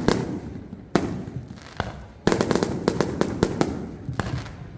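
Fireworks going off: a sharp bang about a second in, then a loud rapid run of crackling reports from just after two seconds, fading into scattered pops, with echo after each.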